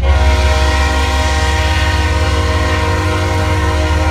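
GE Evolution-series (Gevo) locomotive's air horn sounding one long, loud, steady chord blast, with the locomotive's low engine rumble underneath.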